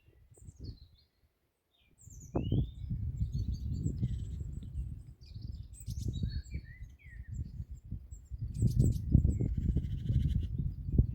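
Wind buffeting the microphone in uneven gusts, strongest near the end, with a brief lull early on, while small woodland birds chirp and call over it with quick, sliding notes and a short buzzy trill.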